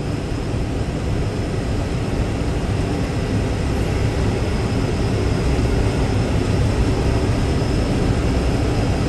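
Tractor engine running steadily under load while pulling a round baler through hay, with a faint steady whine above the engine noise.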